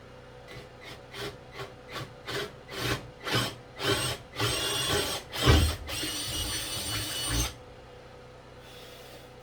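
Power drill boring a hole in wood: short bursts on the trigger, about two a second and each longer and louder than the last, then running steadily for about three seconds before it stops.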